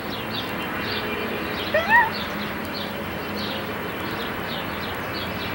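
Small birds chirping over and over in quick short notes, over a steady hiss. About two seconds in, a brief rising vocal sound.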